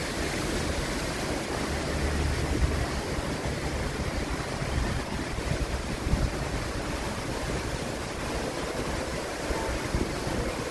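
Strong gusty wind through shaking trees, with rain and wind buffeting the phone's microphone in low rumbles.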